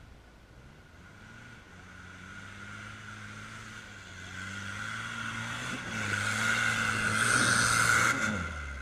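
Toyota 4x4's engine pulling steadily under load as it climbs a steep dirt slope, growing louder as it approaches. Near the end the engine note drops and fades as the throttle comes off.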